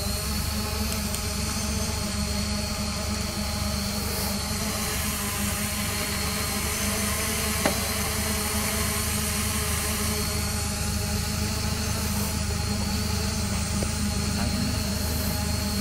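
A steady motor hum made of several fixed tones that do not change, with one short click about halfway through.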